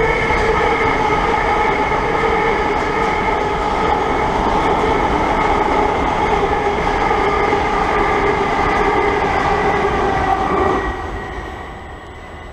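Southern electric multiple-unit train running along the platform close by: a loud, steady rumble with a whine in several pitches above it, dying away about eleven seconds in.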